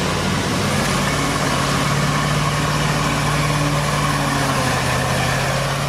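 Truck engine running at steady revs, a constant hum under broad mechanical noise.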